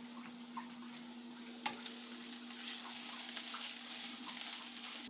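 Vegetables sautéing in a pan: an even sizzle with a utensil stirring and clicking against the pan. After a sharp clack about a second and a half in, the sizzle gets louder.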